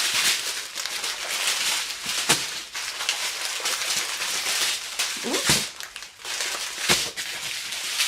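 Plastic packaging crinkling and rustling as strips of bagged diamond-painting drills are handled, with a few sharp clicks.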